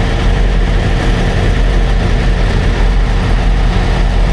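Semi-truck diesel engine idling steadily, a constant low rumble.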